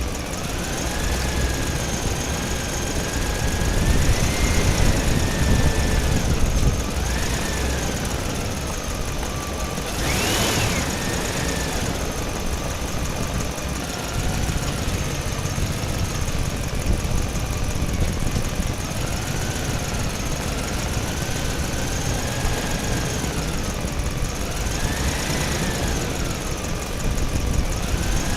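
An engine running steadily, its pitch rising and falling every few seconds as it is revved and eased off. There is a short, louder burst of noise about ten seconds in.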